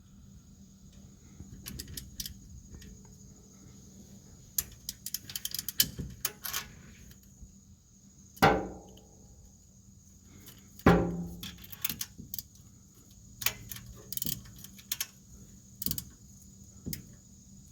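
Hand tools clinking and rattling against metal while rusty exhaust manifold bolts are worked on. There are two louder metallic clanks that ring briefly, a few seconds apart, around the middle.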